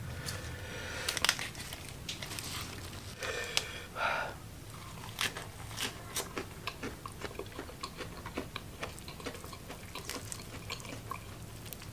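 Close-up sound of a person eating: crunchy bites and steady chewing with many small wet mouth clicks, and a few louder crunches in the first four seconds.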